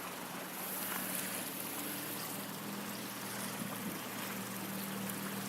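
Steady rush of flowing river water, with a faint steady low hum underneath that gets a little stronger about two seconds in.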